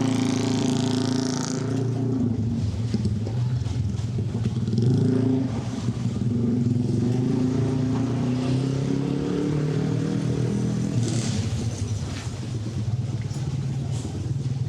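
Street traffic: motorcycles and cars running past close by, with one engine revving up during the first couple of seconds.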